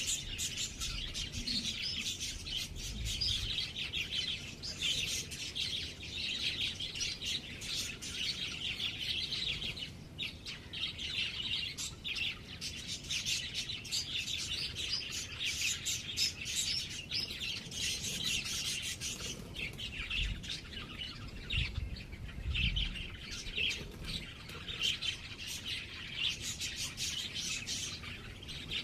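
Small birds chirping and twittering without a break, a dense run of rapid short high chirps. There are a few brief low rumbles underneath.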